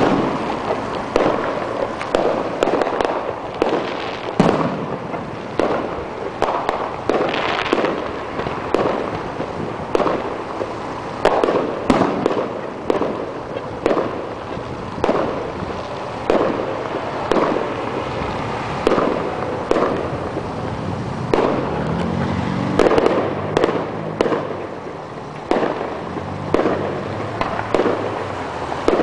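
Aerial fireworks shells going off in a steady barrage, a sharp bang about every second, each with a short echoing tail.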